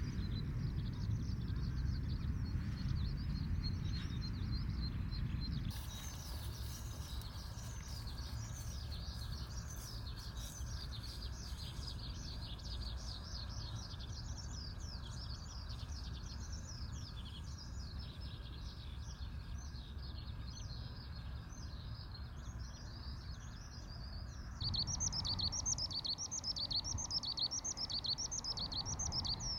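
Skylarks singing, a continuous rapid twittering over the low rumble of wind. The sound changes abruptly about six seconds in, and again near the end, where the song gets louder.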